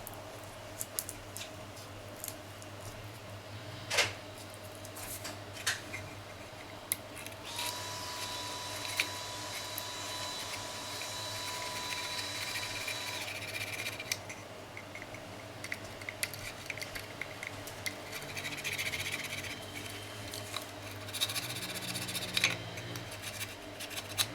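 Quiet hand work on a small part: scattered clicks and light rubbing, with a sharper click about four seconds in and more clicking and rubbing near the end. A steady high tone sounds for about five seconds in the middle over a low background hum.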